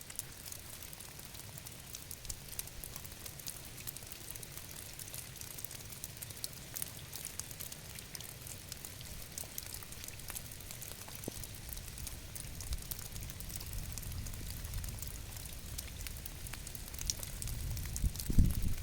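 Steady rainfall, with many separate drops ticking sharply against a soft hiss. A low rumble swells up about 18 seconds in and is the loudest moment.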